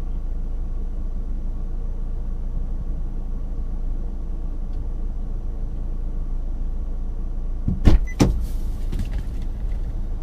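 Road and engine noise heard from inside a moving car: a steady low rumble, with two sharp knocks in quick succession about eight seconds in.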